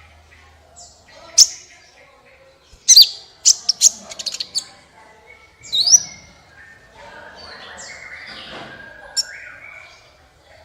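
Small bird calling: loud, sharp high chirps, a quick run of short ticking notes, a sweeping call about six seconds in, then softer twittering with one more sharp chirp near the end.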